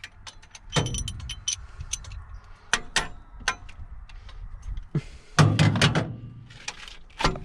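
Metal hand tools clicking and knocking against engine parts during wrench work on the water pump, with a louder burst of knocks about five and a half seconds in.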